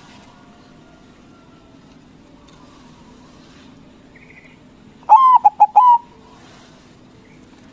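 Zebra dove (white perkutut) singing one cooing phrase about five seconds in: a longer opening note, a few quick short notes, then a longer closing note. A faint steady low hum lies underneath.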